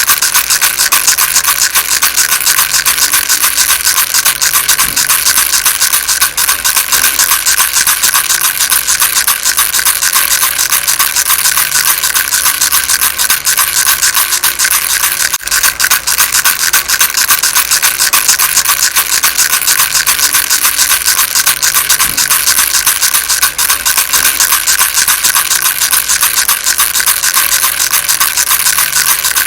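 Baby rattle shaken without pause, its beads making a fast, dense, continuous rattle.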